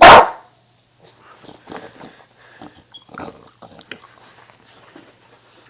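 A pet dog barks once, loudly and sharply, at the very start, then gives a few seconds of quieter, scattered short sounds.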